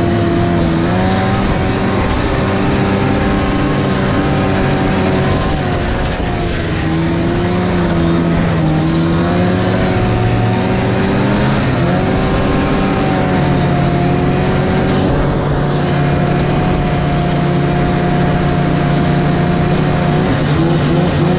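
Snowmobile engine running steadily, its pitch sagging for a few seconds partway through and then rising again about halfway in as the throttle changes.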